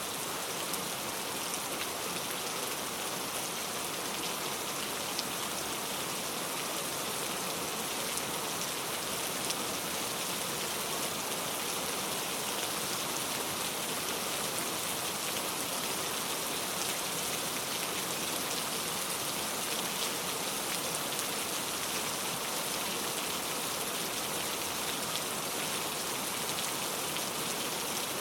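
Steady rain falling without thunder, an even hiss with faint scattered drop ticks.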